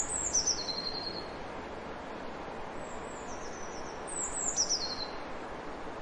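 A small bird singing three high phrases, each sliding down and ending in a quick trill, over a steady background hiss.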